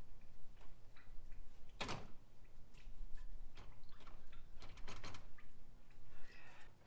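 Irregular clicks and knocks of hand tools and metal parts during engine disassembly, with one sharper knock about two seconds in and a quick cluster of clicks around five seconds.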